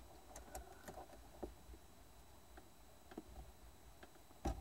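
Faint, scattered small clicks and taps of handling inside a car, with one louder click or knock near the end.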